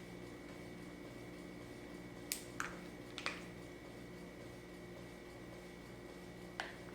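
Quiet room tone with a steady low electrical hum, and a few faint, sharp clicks from small objects being handled, about two to three seconds in and again near the end.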